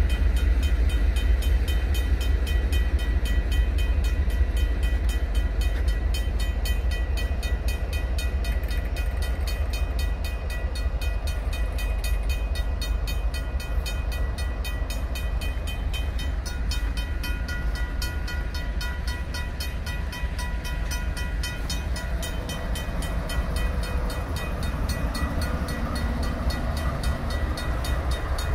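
A string of diesel-electric freight locomotives rumbling past at close range, with a railroad crossing's mechanical bell ringing in a steady rapid rhythm.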